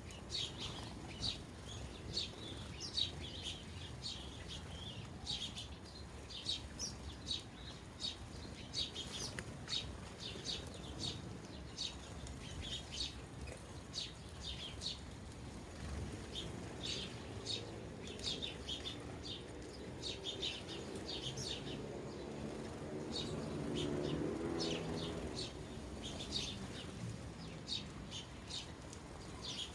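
A flock of sparrows chirping at bird feeders: many short, sharp chirps all the way through. A low rumble swells and fades over the middle part.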